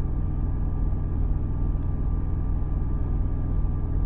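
Semi truck's APU (auxiliary power unit) running steadily: a constant low engine drone with the blowing of its air-conditioning.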